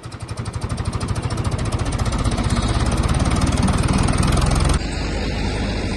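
Tractor engine running with a rapid, even thumping that grows louder over the first two seconds; near the end it changes abruptly to a smoother, steady drone.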